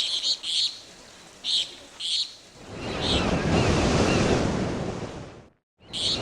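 Birds chirping in short high bursts, then a surf-like rushing noise swells up about two and a half seconds in, with chirps over it. It cuts out abruptly for a moment near the end and comes back.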